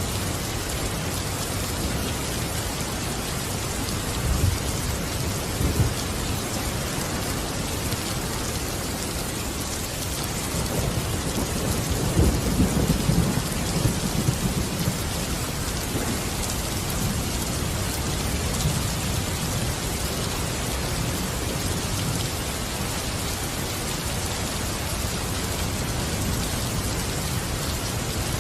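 Steady rain falling, with thunder rumbling low twice: a short roll about four seconds in and a longer, louder one around twelve seconds in.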